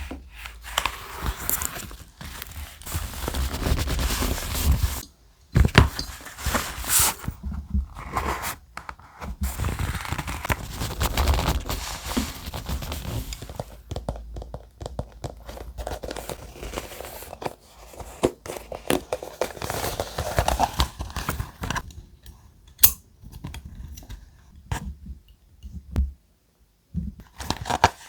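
Thick, textured paper being handled, rustling and crinkling in irregular stretches broken by short pauses.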